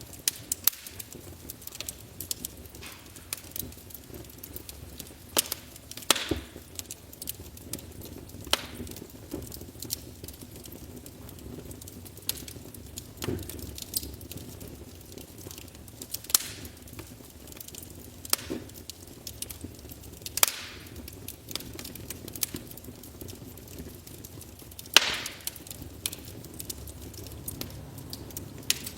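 Wood fire in a fireplace crackling, with irregular small snaps and a few louder pops.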